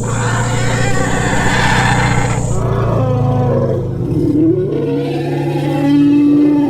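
Elephant-style creature vocalization mixed from elephant and mammoth sound effects: a harsh roar lasting about two and a half seconds over a steady low rumble, then lower calls that slide up and down in pitch.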